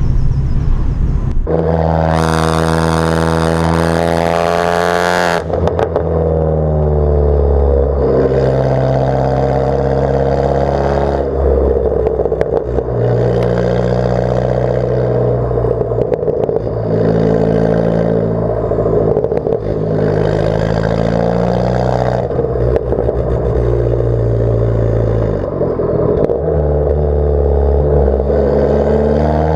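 Abarth 500's turbocharged 1.4-litre four-cylinder engine through a decatted, straight-piped Bombardone exhaust, loud. The engine note holds steady for a few seconds, then shifts in pitch, over and over; about two seconds in there is a harsher, brighter blast lasting a few seconds.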